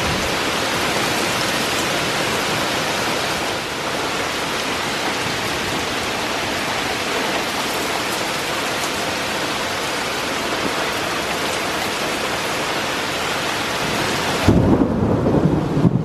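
Heavy thunderstorm rain pouring down as a steady hiss. About a second and a half before the end, a loud low rumble of thunder breaks in.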